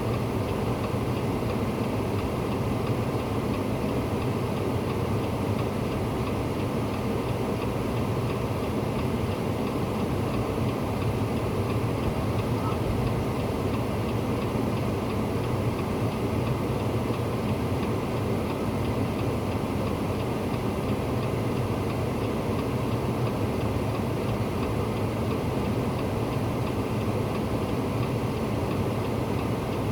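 Vehicle engine running steadily with no change in level.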